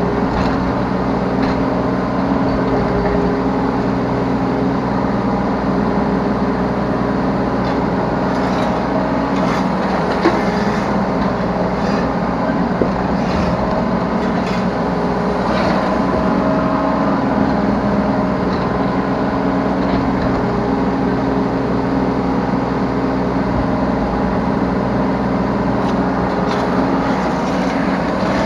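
Yanmar B3 Sigma 3-tonne mini excavator's diesel engine running steadily while the machine digs and loads, with a few sharp knocks from the work, the loudest about ten seconds in.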